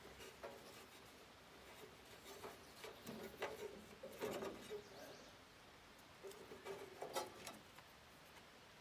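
Faint squeaks and soft clicks of a rubber drive belt being worked off a tight engine pulley by hand, in a few short clusters. The belt is worn thin.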